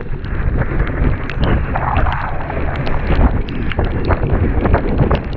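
Wind buffeting the microphone of a camera carried by a mountain biker riding down a dirt jump line, a steady low rumble with many short clicks and rattles from the bike.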